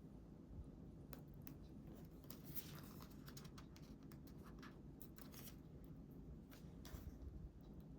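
Faint paper handling at a craft table: scattered soft clicks, rustles and snips, bunched around a few seconds in and again near the end, over a low steady room hum.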